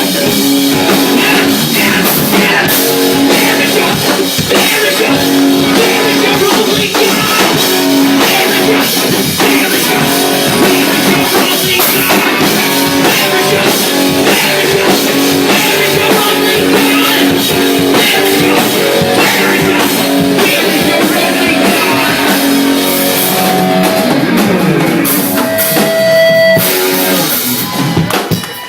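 Live rock band playing an instrumental stretch: electric guitar riffing over a drum kit, the level dropping off near the end.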